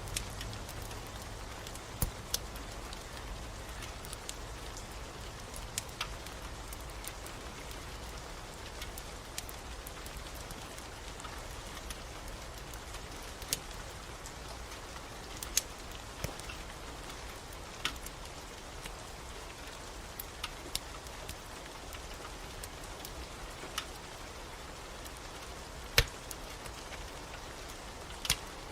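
Steady rain with the irregular sharp crackles and pops of a wood fire burning in a fireplace, one pop about 26 seconds in standing out as the loudest.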